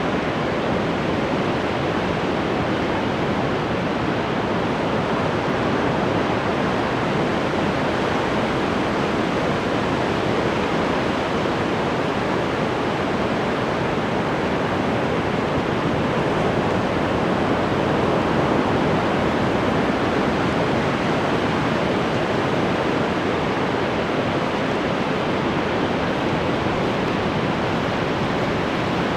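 Ocean waves washing onto the shore in a continuous rush of surf, with a slight swell in loudness about halfway through.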